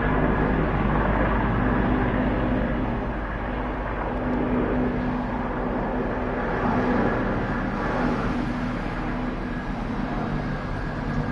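Aircraft overhead: a steady engine drone with a low hum and several held tones.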